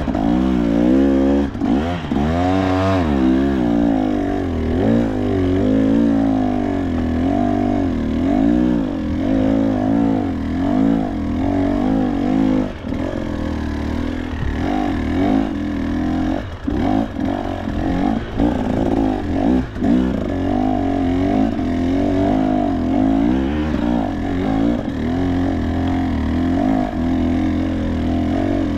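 KTM two-stroke dirt bike engine revving up and down in constant throttle bursts, its pitch rising and falling every second or so as the bike is ridden through rough trail.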